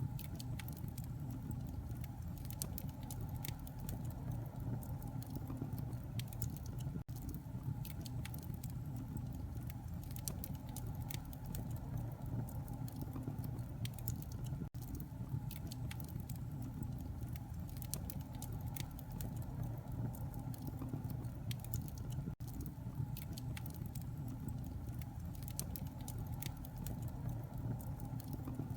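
Wood fire crackling and popping over a steady low rumble, with a brief gap about every eight seconds where the recording loops.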